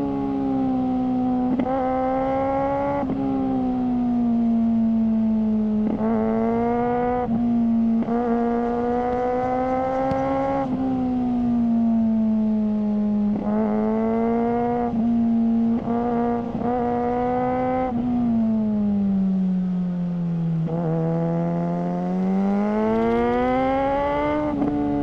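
Suzuki GSR600's inline-four engine running through a GPR Ghost aftermarket exhaust, with the throttle opened and closed several times so the note repeatedly hardens and softens. The pitch sags about three quarters of the way through and climbs back up near the end.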